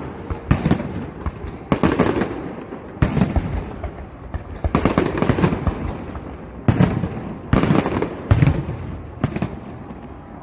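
Aerial fireworks bursting overhead: about eight sharp bangs roughly a second apart, each trailed by crackling.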